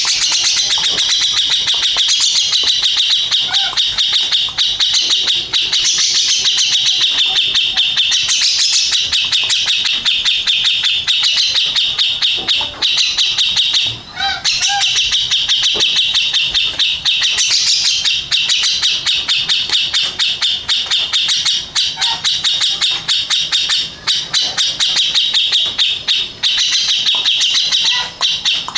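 Grey-cheeked bulbul (cucak jenggot) singing continuously: a loud, rapid, unbroken stream of high chattering notes, with only a couple of brief pauses.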